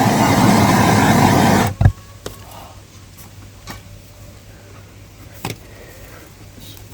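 A loud steady motor noise that cuts off abruptly a little under two seconds in, followed by quiet with a few faint clicks.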